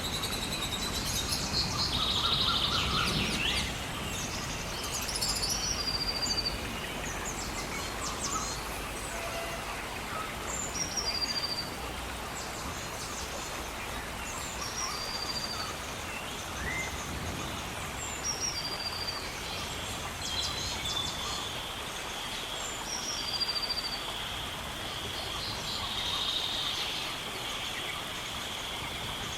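Songbirds chirping and singing, one repeating a short high chirp every few seconds, over the steady hiss of gentle rain.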